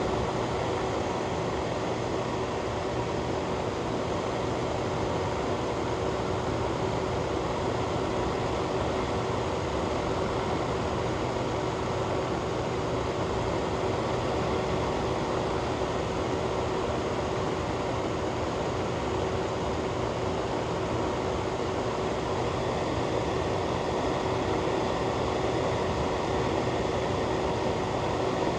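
Fan running steadily: an even rush of air with a constant low hum and one steady mid-pitched tone, unchanging throughout.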